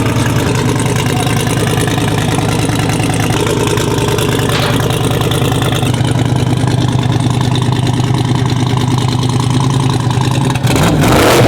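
Engine idling steadily. Near the end, a sudden louder rush of engine noise breaks in, falling in pitch.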